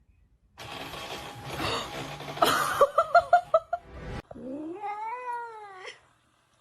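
A cat caterwauling: a rough noisy stretch, then a quick run of short cries and one long drawn-out wail that rises and then falls.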